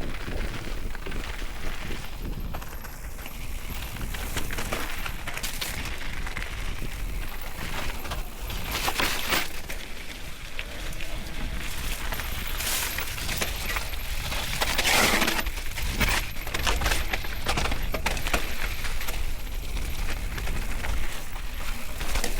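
Mountain bike ridden over a rough, wet trail: irregular rattling and knocking of the bike, with wind rumbling on the microphone. There are louder rushes of noise about nine and fifteen seconds in.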